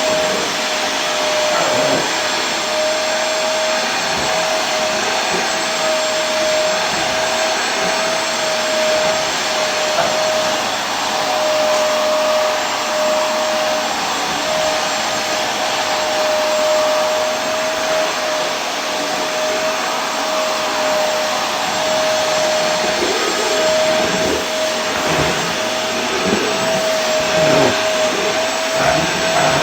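Vacuum cleaner running steadily, an even whooshing hiss over a constant motor whine.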